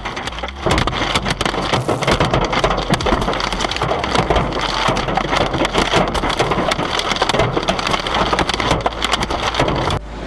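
Hailstones pelting hard surfaces in a dense clatter of impacts. It starts about half a second in and cuts off abruptly near the end.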